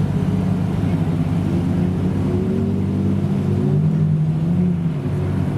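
Supercar engine running with a deep, steady drone. Its pitch climbs a little from about two seconds in and drops back about five seconds in, as the revs rise and settle.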